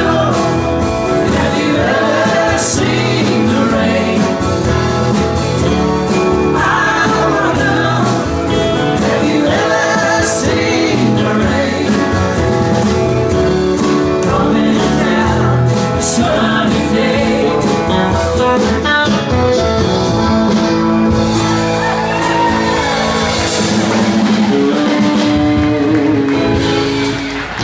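Live band with electric guitar playing a rock song while a singer and the crowd sing along. The music ends near the close.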